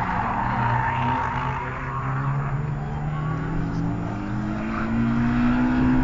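Race car engine running hard and accelerating along the track, its pitch rising over the last few seconds.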